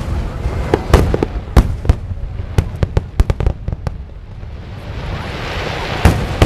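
Fireworks going off in a rapid, irregular string of sharp bangs, thickest a couple of seconds in. About four seconds in, a hissing crackle builds and swells before more bangs follow.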